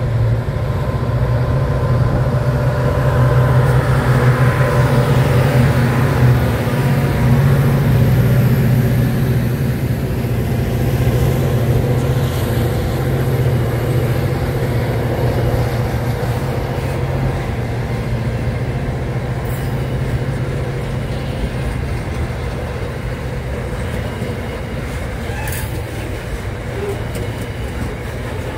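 Aurizon grain train passing close by: a steady diesel locomotive drone with a strong low hum, loudest in the first ten seconds or so. The drone then eases slowly as the wagons roll past.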